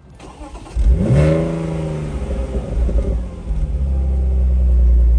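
BMW Z4 (E85) engine starting: it catches about a second in with a brief rev that rises and falls. It then settles into a steady idle.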